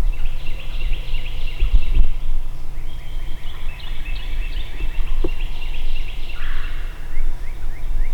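Wild turkeys gobbling, in long rapid rattling runs that come twice, the second longer. A steady low rumble runs underneath.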